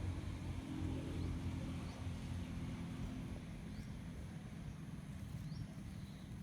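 An engine running steadily at low speed, a low even hum. Faint short bird chirps come through above it four times.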